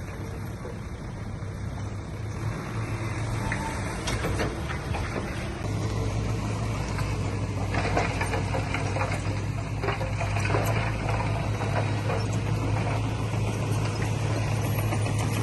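Diesel engine of heavy earthmoving machinery running steadily, growing louder about six seconds in, with scattered metallic clanks and rattles over it.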